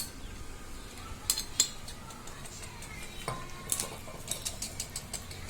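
A metal utensil clicking and scraping against a plate while tomato sauce is spread over a slice of bread, with sharp taps about a second in and a quicker run of clicks near the end.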